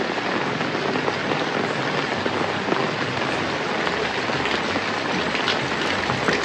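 Steady rain falling, with many individual drops pattering as close ticks.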